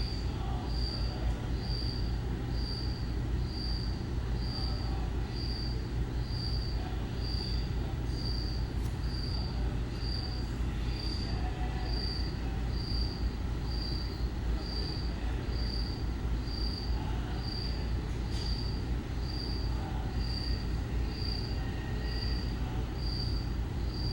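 A cricket chirping steadily, a short high-pitched chirp about every two-thirds of a second, over a low steady rumble.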